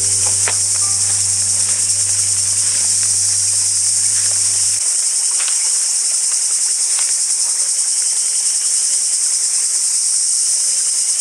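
Loud, steady chorus of insects, a continuous high shrill. Soft background music with low held notes stops about five seconds in.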